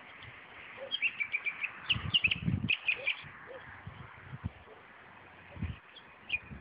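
Common nightingale singing: a phrase of rapid repeated notes about a second in, lasting about two seconds, then a brief pause and another short phrase near the end.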